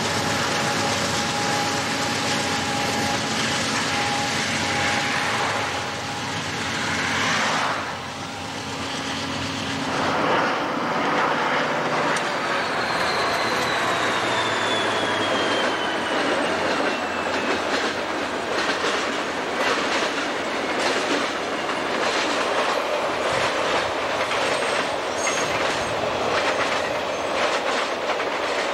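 Freight train cars rolling past, steady running noise with a few thin steady tones, then a break about eight seconds in. After it, more freight cars pass with a slowly falling squeal of wheels, then a rhythmic clickety-clack of wheels over rail joints that fills the rest.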